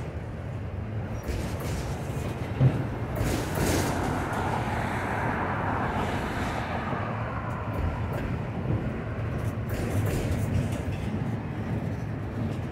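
Freight train of autorack cars rolling past close by: a steady rumble and clatter of wheels on rail, with one sharp knock about two and a half seconds in.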